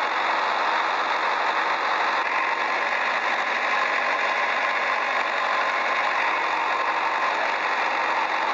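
Small motor of a toy mini tractor running steadily with a thin, even buzz.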